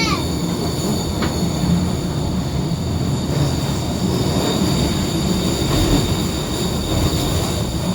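Docklands Light Railway train running along the track, heard from inside the carriage: a steady rumble with a few constant high-pitched electrical whines above it.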